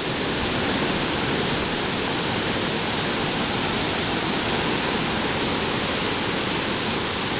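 Water rushing steadily over a dam's spillway waterfall, a continuous even roar with no breaks.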